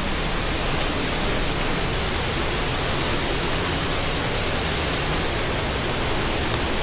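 Waterfall rushing: a steady, loud, even wash of falling water close by.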